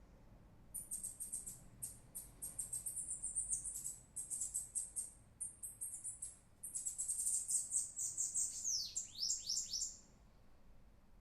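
Bananaquit (sibite) singing: phrases of rapid, very high, thin notes with brief pauses between them, ending in a few quick downward-sliding notes near the end.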